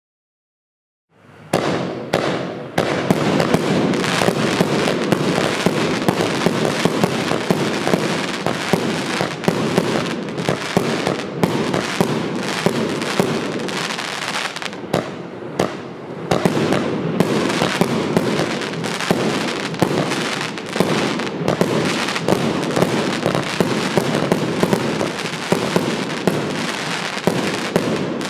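80-shot 30 mm compound firework cake firing, starting about a second in: a rapid, unbroken barrage of launches and bursts with dense crackling, easing briefly about halfway through before running on.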